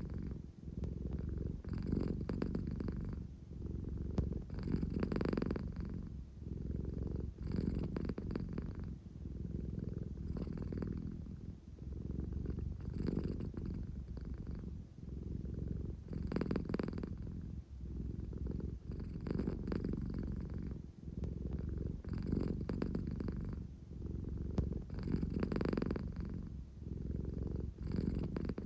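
An American Shorthair cat purring steadily and closely, the purr swelling and easing with each breath about every three seconds. She is a sleepy cat purring to be petted.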